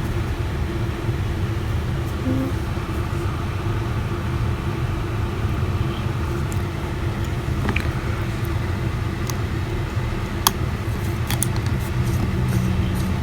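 Steady low background hum, with a few faint small clicks about halfway through and toward the end, from small tools and parts being handled while fitting a phone's internal connector.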